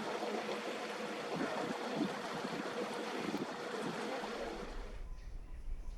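Steady rushing noise that drops away sharply about four and a half seconds in, leaving only a faint low hum.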